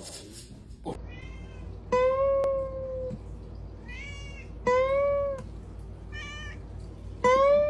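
A cat meowing repeatedly. Three loud, drawn-out meows alternate with shorter, fainter ones, about one call every one to one and a half seconds.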